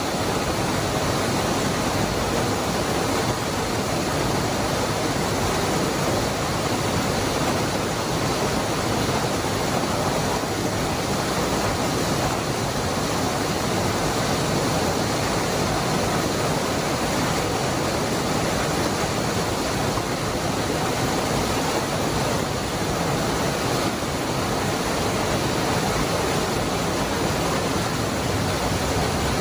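Cascada del Hervidero waterfall: water falling and rushing in a steady, unchanging roar of noise, with no pauses or separate splashes.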